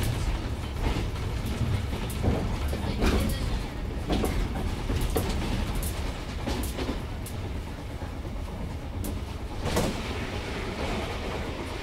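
Cabin sound of a Japanese National Railways Yokosuka Line electric train under way: a steady low rumble broken by irregular clacks of the wheels over rail joints.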